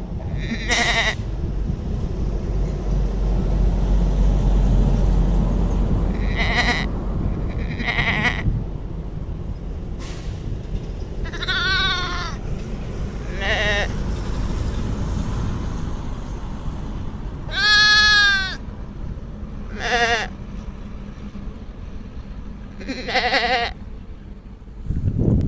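Lamb bleating, about eight separate short bleats with pauses between them; the longest and loudest comes about two-thirds of the way through. A steady low rumbling noise runs beneath.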